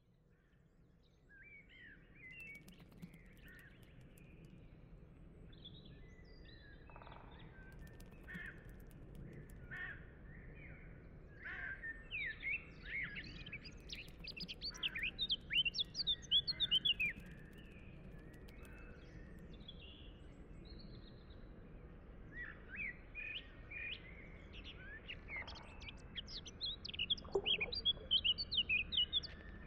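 Birds chirping and singing in many short, quick calls over a faint steady outdoor hiss, fading in from silence at the start; the song is busiest around the middle and again near the end.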